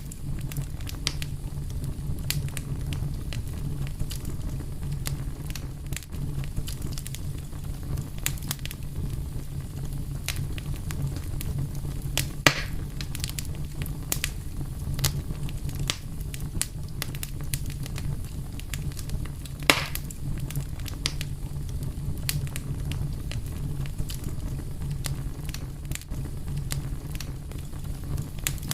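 Wood fire burning with a steady low rumble and irregular crackles and pops, two louder pops at about twelve and twenty seconds in.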